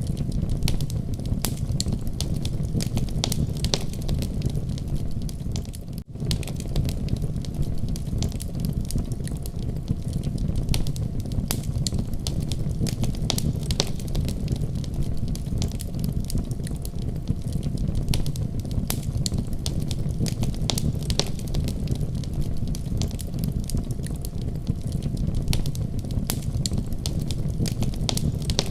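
Fireplace fire crackling: a steady low rumble of flames with irregular sharp crackles throughout. The sound drops out for an instant about six seconds in.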